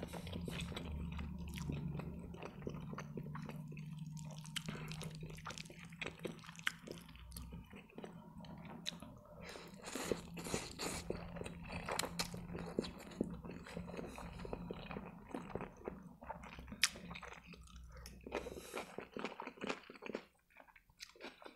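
Close-miked mouth sounds of a person eating spaghetti and sausage: wet chewing with irregular small clicks and smacks throughout, and noodles being slurped off a fork about ten seconds in.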